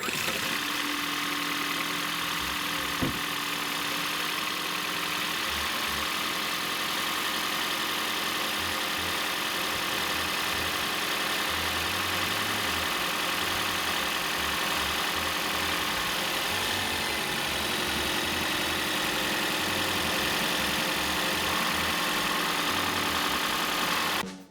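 Toyota Aqua's 1.5-litre four-cylinder engine running steadily at idle, heard close up, on a fresh set of iridium spark plugs fitted to cure a loud rattling at idle.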